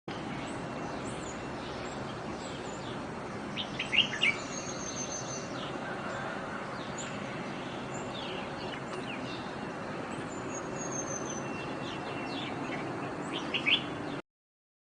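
Small songbirds chirping and calling over a steady background hiss, with sharp clusters of loud chirps about four seconds in and again near the end, and thin, high whistles that slide downward.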